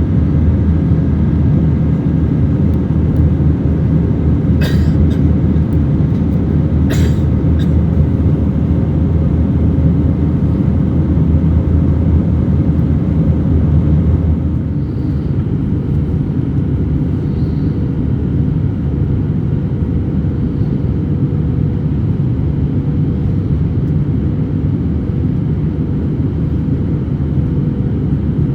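Steady cabin rumble of an Airbus A321-200 airliner, with two brief clicks or rattles about five and seven seconds in; the rumble eases a little about halfway through.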